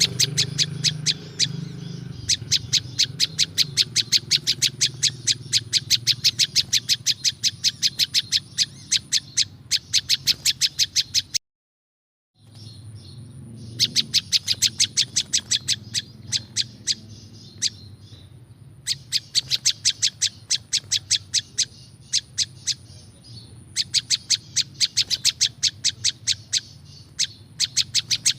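Prinjak lumut (prenjak lumut) calling: long runs of sharp, high chip notes at about four a second, with short pauses between runs. Just before the middle, all sound drops out for about a second, then the calling resumes.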